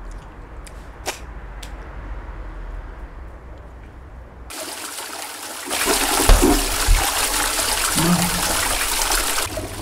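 A toilet flushing, starting about halfway through: a loud rush of water with gurgles that cuts off near the end. The flush fails to clear a blocked bowl. Before it there is only faint background with a couple of small clicks.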